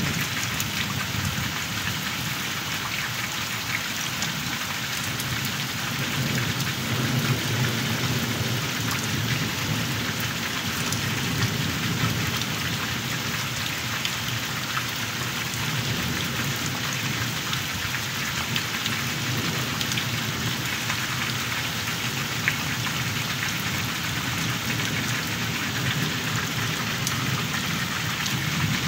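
Heavy rain falling steadily on waterlogged ground: an even, dense hiss, with a low rumble underneath that swells and fades.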